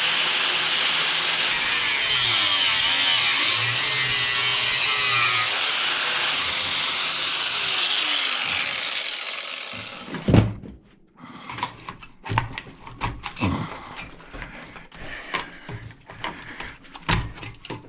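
A handheld power tool running under load, its pitch wavering as it works into the part, stopping about ten seconds in. Then a string of sharp clicks and knocks as parts are handled.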